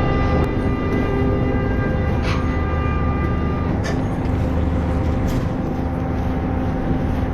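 A prawn trawler's engine and deck machinery running with a steady, loud drone, with a few faint knocks over it.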